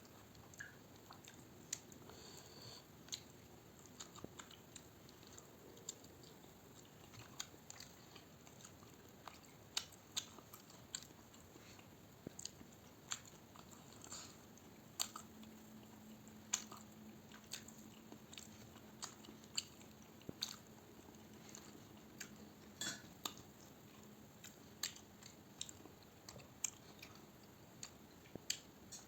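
A person chewing and eating close to the microphone: irregular small wet clicks and crunches of mouth sounds.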